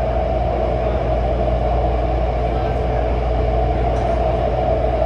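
Taipei Metro Zhonghe-Xinlu line train running between stations: a steady rumble with a constant mid-pitched hum over it.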